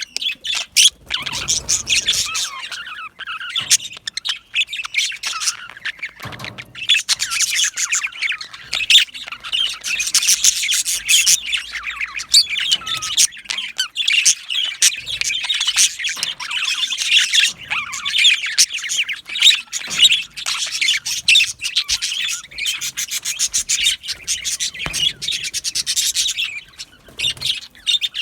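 Budgerigars chirping, warbling and squawking together: a dense, constant chatter of many short, high calls.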